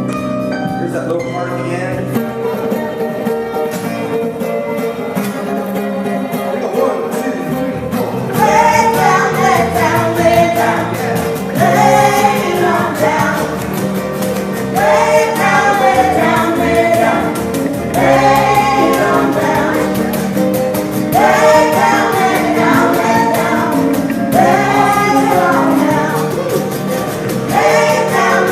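Live acoustic music: sustained guitar-led instrumental playing, then from about eight seconds in, female voices singing together in short phrases that come about every three seconds.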